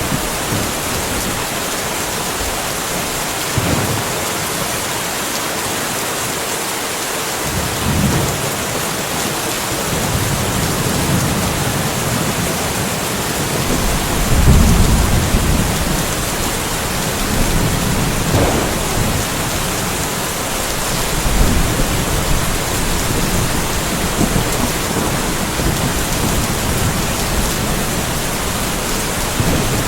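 Steady rain falling, with several low rolls of thunder coming and going. The loudest roll comes about halfway through.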